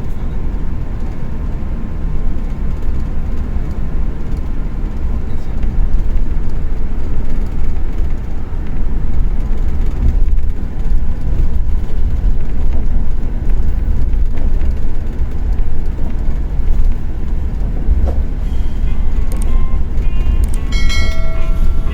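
Scania K410 coach on the move: a steady low rumble of engine and road noise. A few short pitched tones come in near the end.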